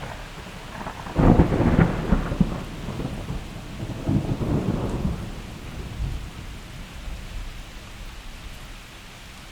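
A thunderclap breaks suddenly over steady rain about a second in, crackling and rumbling. It surges again a few seconds later, then rolls away into the rain.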